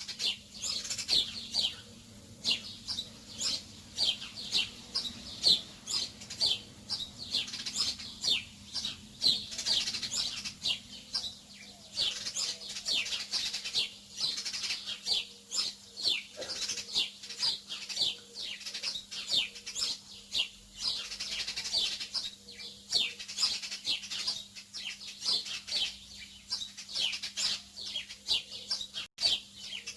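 Small birds chirping busily, a dense run of short, high chirps, each dropping in pitch, several a second and overlapping.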